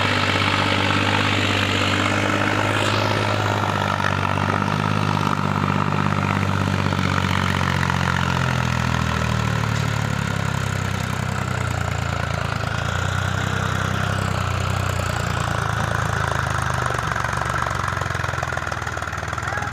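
Diesel engine running steadily, its pitch wavering a little partway through.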